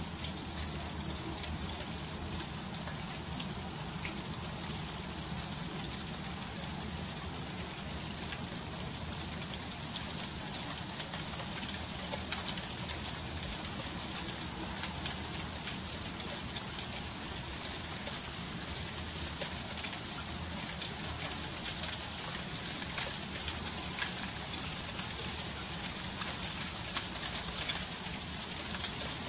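Freezing rain falling in an ice storm: a steady hiss of fine ice pellets and drops with many small ticks as they strike icy surfaces.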